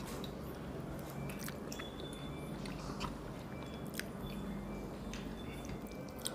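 Chewing and biting as two people eat rice and curry by hand, with scattered small clicks through it.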